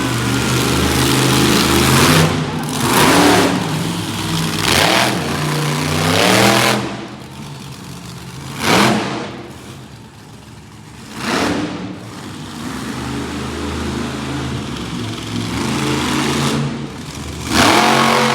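Monster truck engine running loudly and revving in repeated surges, about half a dozen sharp throttle bursts that rise and fall, the strongest near the end.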